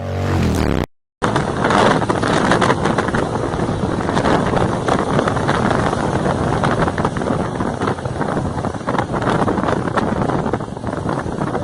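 Wind rushing over the microphone of a moving motorcycle, with its engine running underneath. The sound cuts out briefly about a second in, then carries on steadily.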